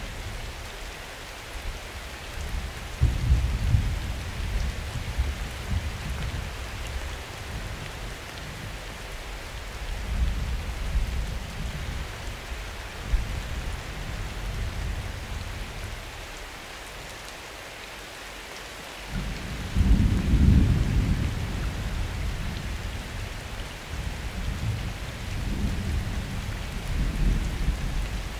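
Summer thunderstorm: steady rain hiss with thunder rumbling several times, the loudest rumble about two-thirds of the way in.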